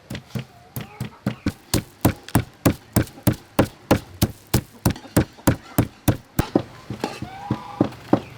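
Black pepper being pounded with a pestle in a mortar: steady, regular strikes about three a second, stopping about six and a half seconds in.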